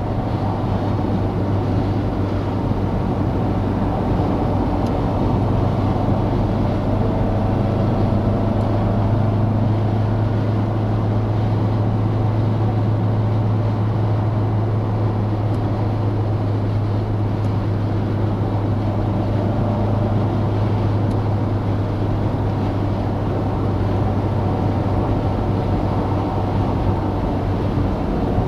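Citroën DS's four-cylinder engine running with a steady low drone while driving at a constant speed, under road and wind noise.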